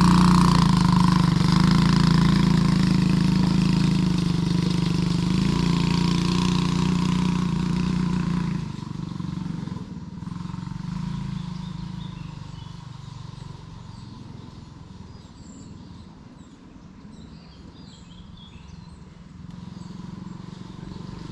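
Quad bike engine running steadily under power, loud at first, then dropping away sharply about eight seconds in and staying faint as the bike moves off.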